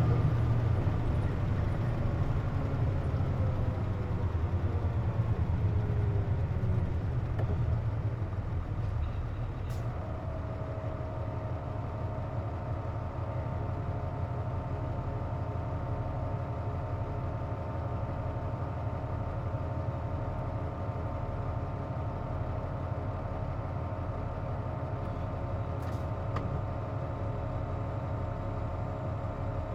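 Cabin sound of a KC-JP250NTN route bus. For about the first ten seconds engine and road noise fade as the bus slows, with a falling tone. It then settles into a steady idle hum with a constant whine from the running air conditioning, the odd noise this bus is known for.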